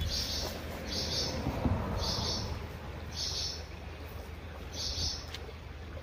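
A songbird calling five times: short, high-pitched calls, each under half a second, spaced roughly a second apart.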